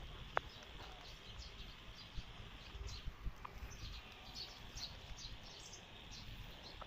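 Faint outdoor ambience with scattered short, high chirps and a single sharp click just after the start.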